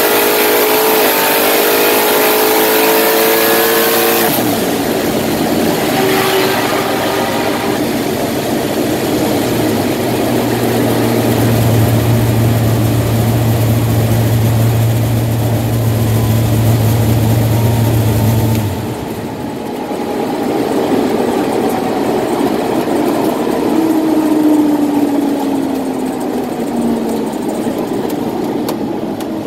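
Race car's engine pulling hard under full throttle, heard from inside the cabin, from a car whose transmission slips in high gear. The revs climb for the first four seconds, the sound changes abruptly at the shift, and a steady drone follows. The drone cuts off suddenly about nineteen seconds in as the throttle is closed, and a falling tone follows as the car slows.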